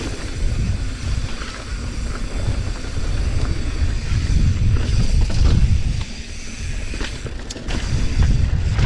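Wind buffeting the microphone of a camera riding along on a mountain bike: a loud, uneven low rumble that swells and eases, with a couple of faint clicks about seven seconds in.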